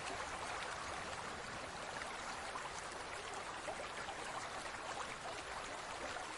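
Water trickling and bubbling steadily in a large aquarium: an even rush with many tiny pops and drips.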